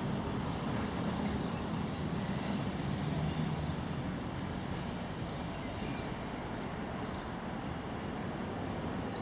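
Diesel passenger train running, a steady rumble of engine and wheels on rail.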